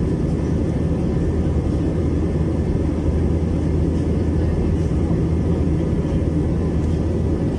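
Steady cabin drone of an Airbus A321-200 airliner: jet engine and airflow noise heard from inside the passenger cabin, heavy in the low end with an even hum.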